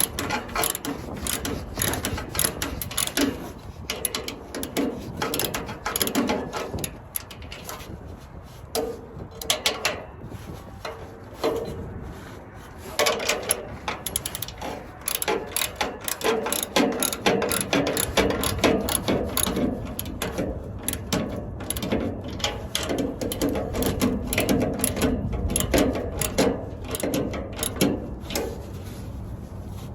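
Hand ratchet wrench clicking in short, irregular spurts of strokes with brief pauses, working the nuts of an exhaust flex-pipe clamp.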